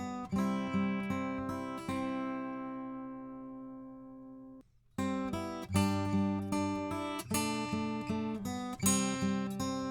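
Acoustic guitar playing chords through a Warm Audio EQP-WA tube equalizer with its high frequencies boosted. One chord rings out for about two seconds and the sound cuts off briefly about halfway through, then the playing starts again.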